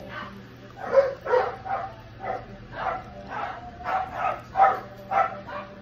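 Close-up wet chewing, lip-smacking and finger-sucking on barbecued rib meat, in regular bursts about twice a second.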